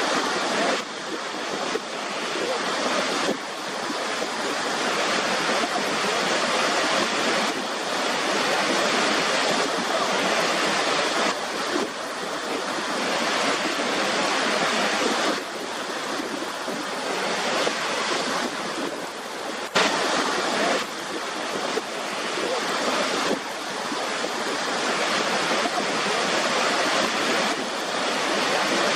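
River water rushing steadily, a dense hiss that swells and eases over a few seconds. A single sharp click about two-thirds of the way through.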